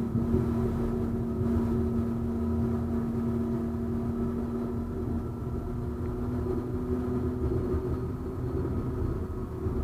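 71-931M Vityaz-M low-floor tram running along the track: a steady rumble of wheels on rail with a steady hum from the traction equipment, which fades about three quarters of the way through.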